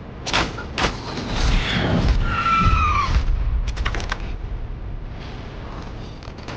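Film action sound effects: two sharp impacts, then rushing noise over a heavy low rumble. About two and a half seconds in there is a short falling cry, and near four seconds a quick run of clicks.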